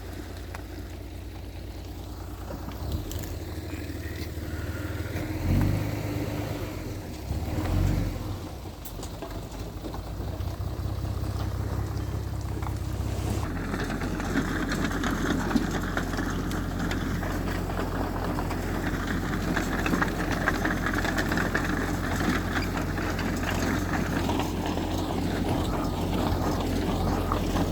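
Engine of heavy earthmoving machinery running, with two loud low surges about a quarter of the way in. It gets louder and busier from about halfway.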